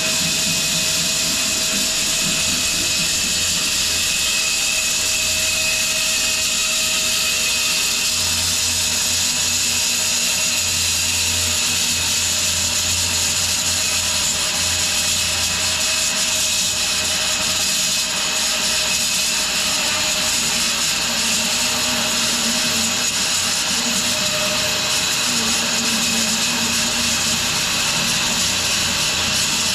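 Home-built wide bandsaw mill running steadily as it cuts through a large maple log, a continuous loud mechanical noise with a high hiss from the blade in the wood.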